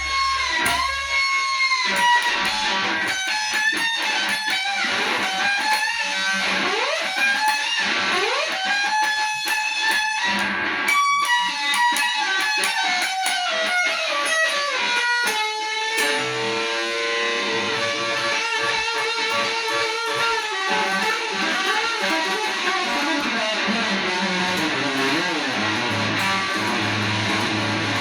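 Electric guitar solo with string bends, vibrato and fast repeated notes; a bass line comes in under it a little past halfway.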